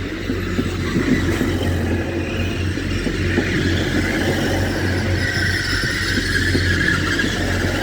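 Class 180 diesel multiple unit running along the platform, a steady deep diesel engine hum under rolling wheel and rail noise, with a faint high squeal in the later seconds.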